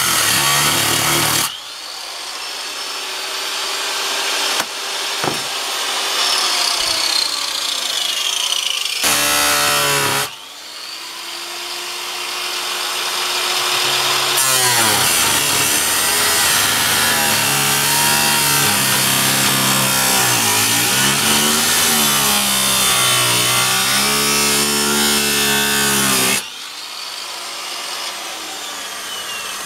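Angle grinder cutting through the steel of an old hand saw blade, running in several spells, its motor pitch sagging and recovering as the disc bites.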